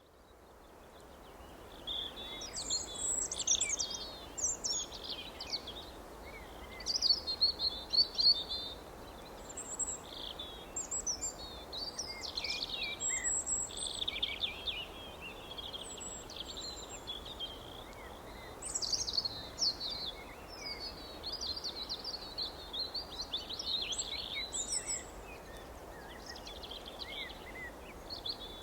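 Several small songbirds chirping and trilling over one another in a dense, continuous chorus of short, quick high-pitched phrases, over a faint steady background hiss; it fades in over the first couple of seconds.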